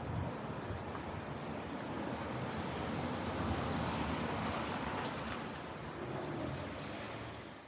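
City street ambience: a steady wash of traffic and street noise with a low rumble, fading out near the end.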